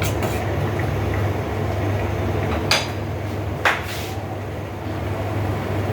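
A spatula stirring vegetables in a frying pan, knocking sharply against the pan twice, about a second apart near the middle, over a steady low hum.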